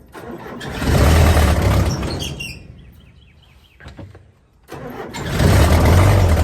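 Case 580C backhoe's four-cylinder diesel engine cold-starting on ether starting fluid: it fires and surges about half a second in, dies back over the next two seconds, then catches and surges again near five seconds.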